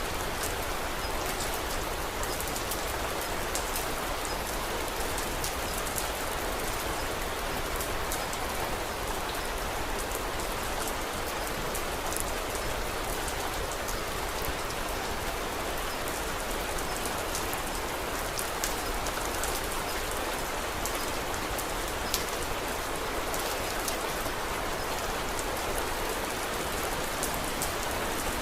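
Steady rain falling, a constant hiss with many small, crisp ticks scattered through it.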